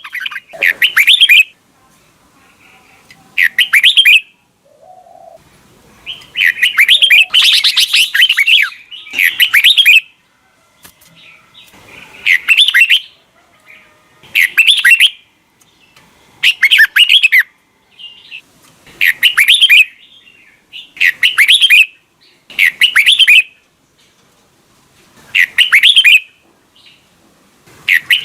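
Red-whiskered bulbul singing loud, short song phrases about every two seconds, with a longer run of phrases about a quarter of the way in.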